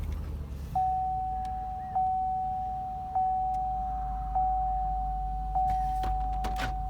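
Truck's dashboard warning chime sounding a single tone that repeats about every 1.2 seconds, over the low rumble of the engine idling. A few light clicks come near the end.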